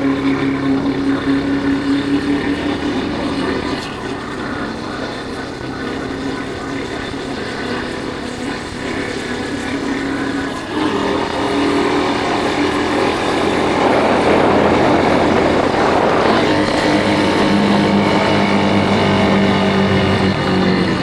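Yamaha Factor 150 motorcycle's single-cylinder four-stroke engine running on the road, with wind noise. The engine note drops about four seconds in and picks up again near eleven seconds, with a spell of heavier wind noise around fourteen seconds.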